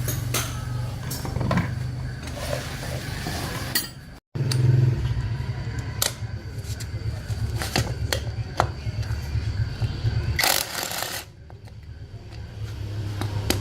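Workshop noise: a steady low machine hum with scattered sharp metallic clicks and knocks. The sound drops out briefly just after four seconds, and a short burst of noise comes near the end.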